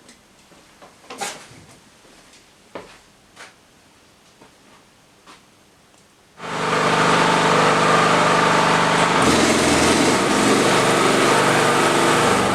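A few light clicks and knocks of handling, then about six seconds in a small motor starts abruptly and runs steadily.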